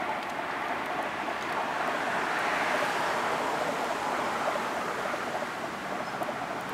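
Distant passenger trains running along the line, a steady rushing rumble that swells a few seconds in and eases off.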